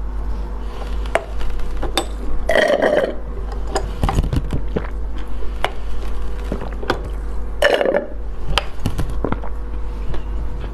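Close-up eating sounds: chewing with many small sharp mouth clicks, and two louder half-second bursts about two and a half and seven and a half seconds in, over a steady low hum.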